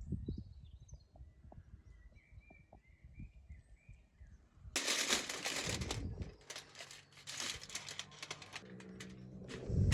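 Aluminium foil crinkling and rustling as it is handled and wrapped, starting suddenly about halfway through and going on in dense crackly bursts. A bird chirps faintly in the quieter first half.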